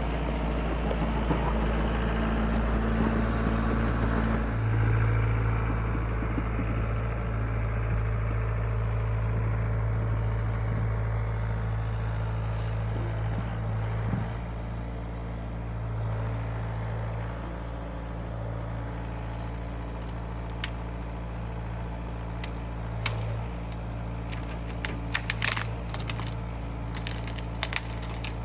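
Case excavator's diesel engine running steadily, working harder with a heavier rush of noise for the first half, then easing down to a lower, steadier run. Sharp cracks and crackles come in a cluster near the end.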